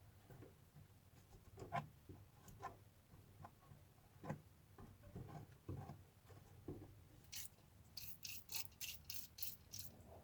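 Scattered light knocks and clicks of handling, then about seven seconds in a quick run of short rubbing strokes, several a second, like something being scrubbed or wiped by hand.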